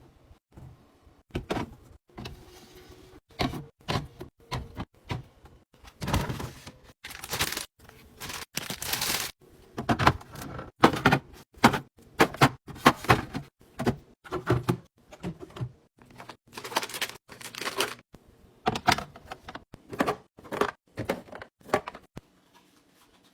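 Irregular clunks, knocks and rustling of groceries and containers being handled and set onto fridge shelves, with the denser, louder clatter in the middle.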